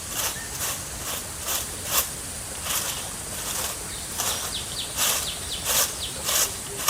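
Footsteps crunching on dry ground, about two steps a second, over a steady insect hiss, with a few short high chirps about halfway through.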